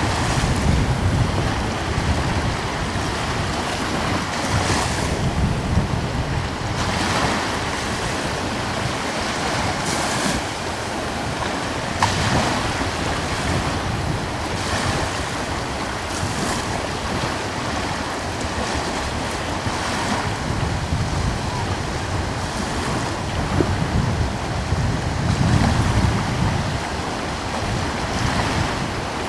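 Gentle sea waves washing in and swelling every few seconds, with a light breeze rumbling on the microphone.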